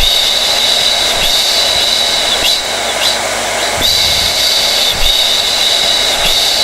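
Hair dryer running steadily: a continuous rush of air with a high-pitched motor whine that wavers slightly every couple of seconds.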